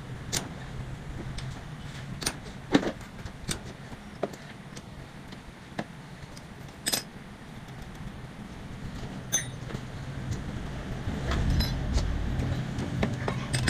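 Scattered sharp metallic clinks and taps of hand tools and engine parts as a scooter engine's cylinder head and block are taken apart, over a steady low hum. A low rumble swells near the end.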